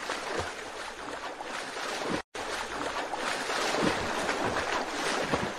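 Sea surf and splashing water, a steady rushing sound that cuts out for an instant about two seconds in.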